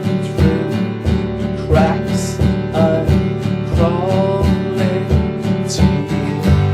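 Live band playing a country-tinged song: acoustic guitar strummed to a steady beat, about two strokes a second, with a melody line over it.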